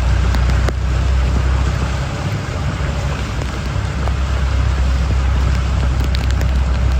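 Heavy rain falling steadily, with a strong low rumble underneath and a few faint ticks.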